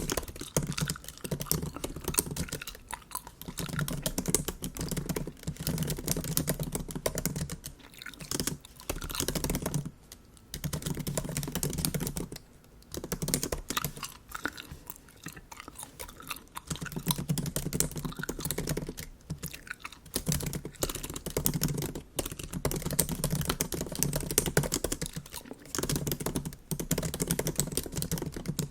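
Typing on a MacBook keyboard: quick runs of light key clicks, broken by brief pauses every few seconds.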